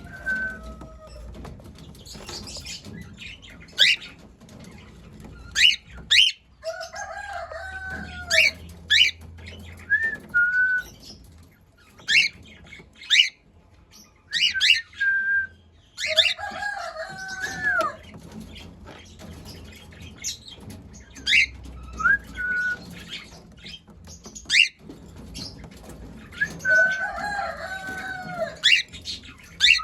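Birds calling: many short, sharp high chirps, with a longer wavering call that comes back three times, about every ten seconds.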